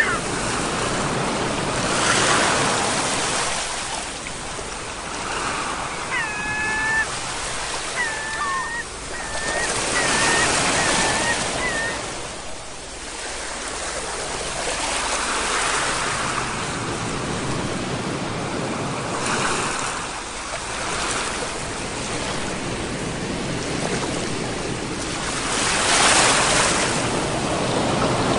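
Ocean surf: waves breaking and washing in, the rush swelling and ebbing in slow surges every several seconds.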